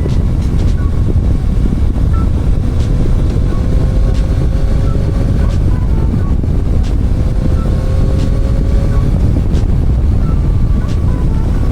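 Motorcycle riding at speed, heavy wind rumble on the microphone over a steady engine note that drifts slowly up in pitch a couple of times.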